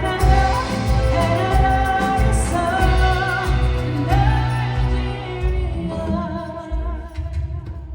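Live soul music: a woman singing a wavering, vibrato-laden melody over a band with a steady bass pulse. The accompaniment thins out near the end.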